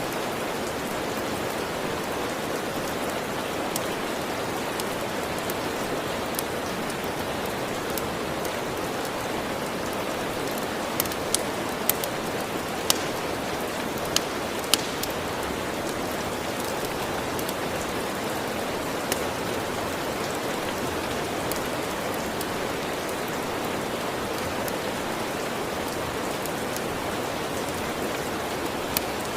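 Steady rain falling, heard as an even hiss, with occasional sharp crackles and pops from a wood fire. The crackles come in a small cluster around the middle.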